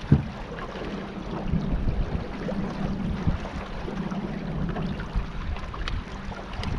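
Water sloshing and splashing around a kayak on the river, with scattered knocks.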